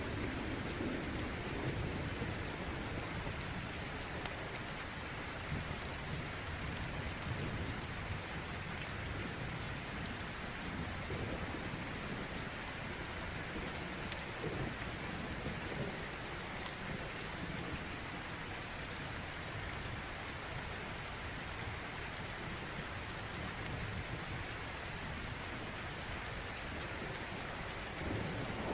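Steady rain falling, with a fine patter of drops, and a low rumble of distant thunder swelling at the start and again near the end.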